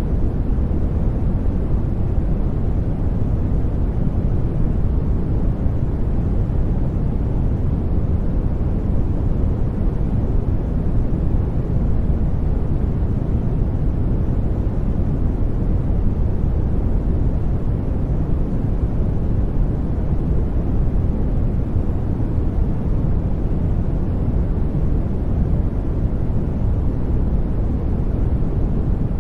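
Continuous synthetic sleep noise, a steady deep hiss weighted toward the low end, with no change or events.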